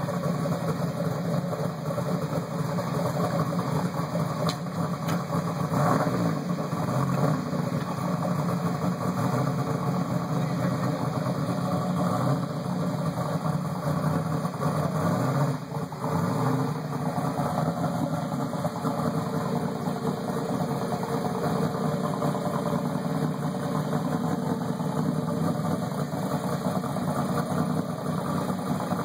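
Turbocharged V6 of a Buick Regal T-Type drag car idling steadily.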